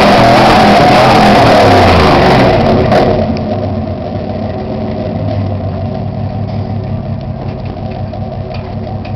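1999 Dodge Ram's 5.2 Magnum V8 through a knock-off V-Force aftermarket exhaust, held at high revs, then let off about three seconds in and settling to a steady idle.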